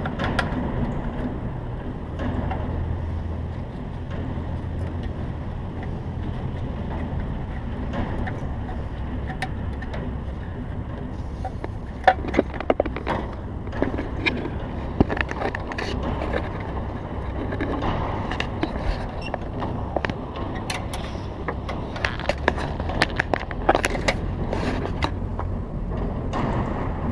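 Hand tools clicking and knocking against metal fittings while the oil filter's cooling shroud is taken apart, as scattered sharp clicks that come thicker in the second half, over a steady low rumble.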